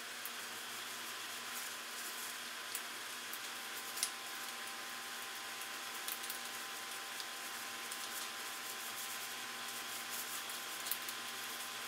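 Shop heater running, a steady hiss with two faint steady tones. A few soft clicks and rubs sound over it, the clearest about four seconds in.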